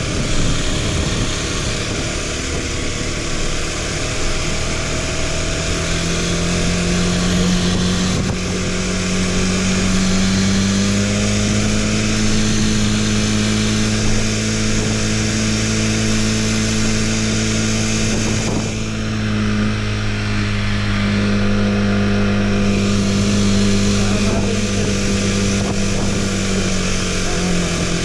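Motorcycle engine running steadily while riding, over a constant rushing noise. The engine note climbs slightly about six seconds in, then holds level.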